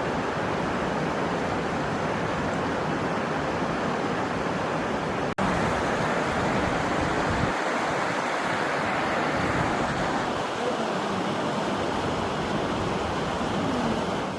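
Steady rushing noise, cut off for an instant about five seconds in.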